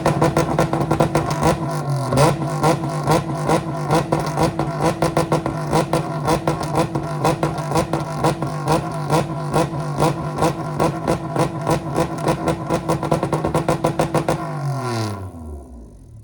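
Mitsubishi Pajero rally car engine running steadily at idle with a rapid, pulsing clatter. Near the end it is switched off and its note falls away to a stop.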